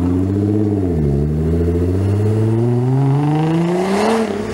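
Nissan GT-R's twin-turbo V6 accelerating hard away. The engine note climbs, drops sharply about a second in as it shifts up, then climbs steadily again before falling away near the end.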